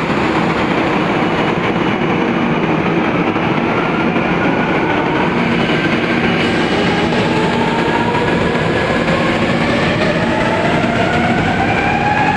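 Train running with a loud, steady rail noise, and a whine that rises in pitch through the second half as it picks up speed.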